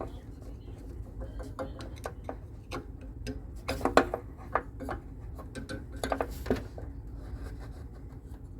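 Irregular clicks and light metallic clatter of hand tools and parts being handled on a split air conditioner's indoor unit, loudest about four seconds in and again in a quick cluster around six seconds, over a steady low hum.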